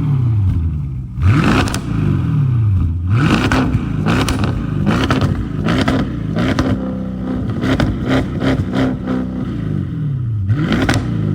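Audi S8 engine with two of its mufflers removed, blipped up and down about half a dozen times, the exhaust crackling and popping as the revs fall. Past the middle the revs are held up for about two seconds before dropping, then one more blip near the end.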